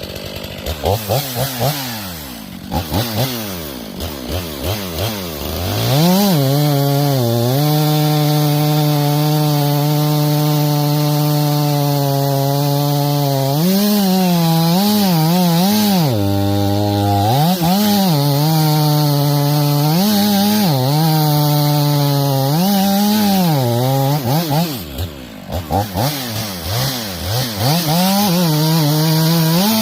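Two-stroke chainsaw revved up and held at a steady full-throttle pitch for several seconds, as in a cut through wood, then blipped up and down repeatedly. Near the end it drops briefly toward idle before revving again.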